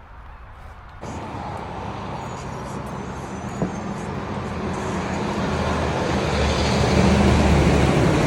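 Road traffic noise with a low engine hum that grows steadily louder, starting suddenly about a second in and cutting off abruptly near the end.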